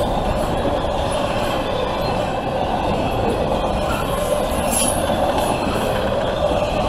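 CSX intermodal freight train's container well cars rolling past close by: a steady, loud rumble of steel wheels on rail.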